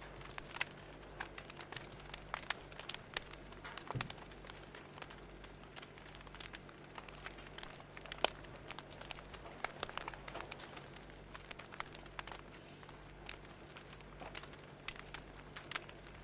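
Fire crackling: irregular sharp pops and snaps over a steady low hum.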